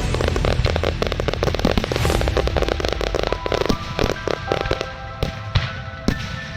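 Aerial fireworks going off in a dense, rapid crackle of small reports, thinning to scattered single bangs in the second half.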